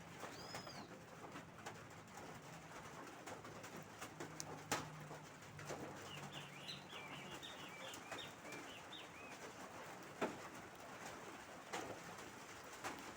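Light rain with scattered drops tapping close by. Birds call over it: a low cooing on and off, and about halfway through a quick run of high chirps.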